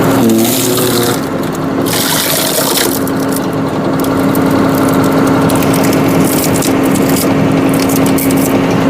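Tractor engine running steadily at about 1400 rpm and driving a tractor-mounted hydraulic log splitter under load, with a steady hum and a rushing hiss that comes and goes as the splitter works through a large log.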